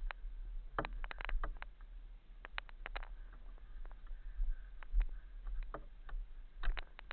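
Mountain bike clattering down a rocky, loose descent: irregular sharp knocks and rattles, several in quick clusters, over a steady low rumble.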